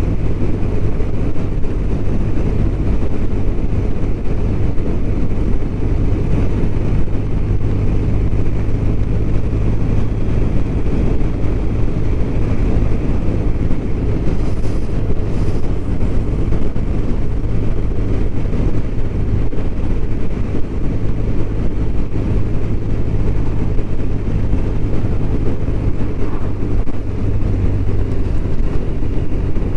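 BMW R1200RT's boxer twin engine droning at a steady cruising speed, with the rush of wind and road noise. Near the middle there is a brief, faint hiss, twice.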